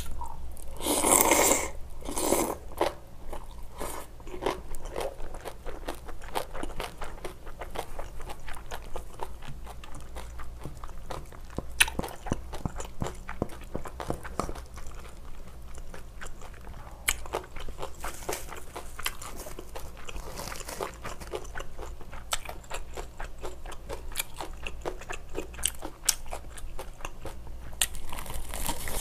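Close-up eating sounds: a woman chewing and biting mouthfuls of spicy stir-fried octopus, beef intestine and shrimp stew, with many small wet clicks and smacks. A denser, louder stretch of mouth noise comes about a second in.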